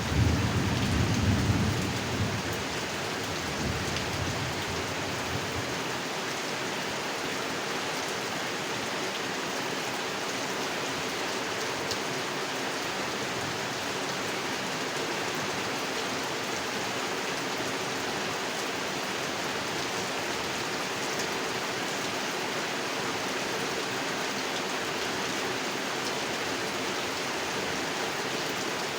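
Steady rain falling on a pond, with the low rumble of thunder dying away in the first two seconds or so.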